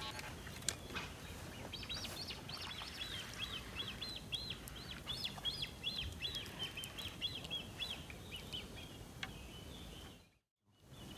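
A bird calling in a long series of short, high chirps, about three or four a second, over a low background rumble; the sound drops out briefly near the end.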